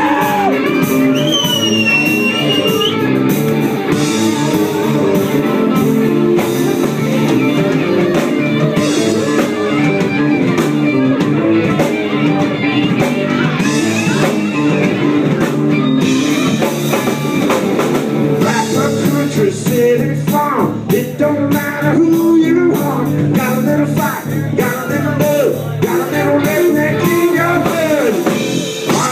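Live country-rock band playing an instrumental break: a lead guitar line with bending notes over bass and drums.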